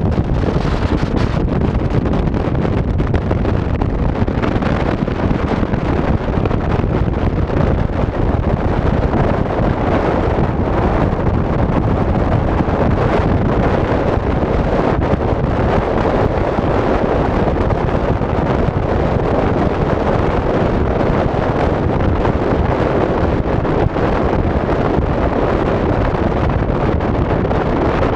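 Steady, loud wind buffeting the microphone: an even rushing noise with no breaks.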